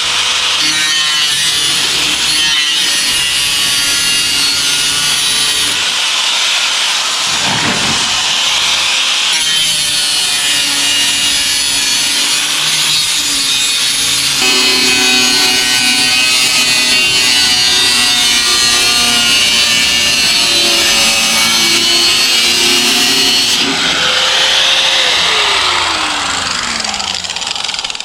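Power-tool cutting sounds, like a saw running through material, mixed with background music. Near the end, a tone slides down as a motor winds down.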